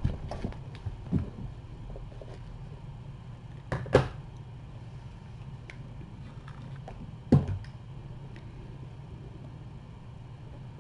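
Steady low hum with a few short knocks and bumps, the loudest about four seconds in and again just past seven seconds.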